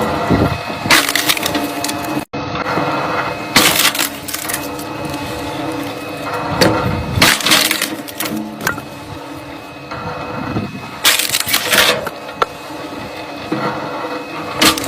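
Firewood logs being split, with about four loud bursts of wood cracking and splintering a few seconds apart, over a steady machine hum.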